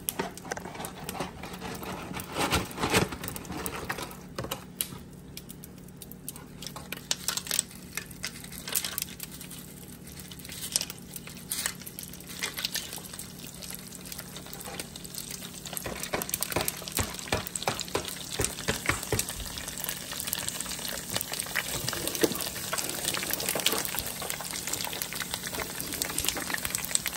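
Pork skin pellets frying in hot oil, crackling and sizzling as they puff up, with a wire skimmer stirring through the pan. The sizzle grows denser and louder in the second half.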